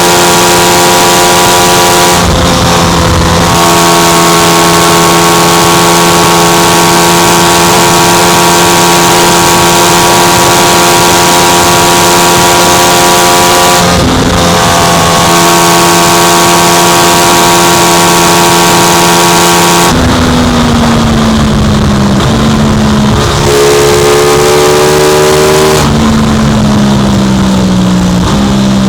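Aprilia RS660's parallel-twin engine held at high revs at speed, with loud wind rush over the microphone; the note breaks briefly twice for upshifts. In the last third the revs fall as the bike slows, jumping back up twice as it is shifted down.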